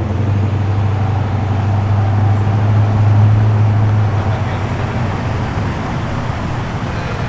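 Car engine running at low revs, a deep steady rumble that fades away about four seconds in, over general traffic noise.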